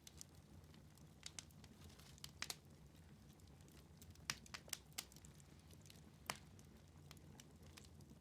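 Wood fire in a fireplace crackling softly, with a scattering of sharp, irregular pops over a faint low hum.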